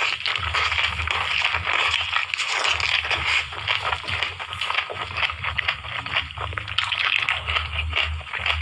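Close-miked chewing of a mouthful of green vegetable: continuous wet, crackly mouth sounds with many small crunches and smacks, over a steady low hum.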